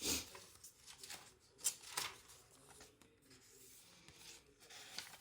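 Paper pages of a handmade junk journal rustling as they are turned and handled. There is a sharp rustle at the start, two short crisp ones about two seconds in, and another near the end.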